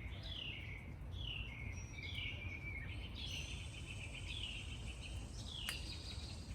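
Songbirds singing after rain: a run of clear whistled notes, each sliding downward, about two a second, over a steady low background rumble. A brief click comes near the end.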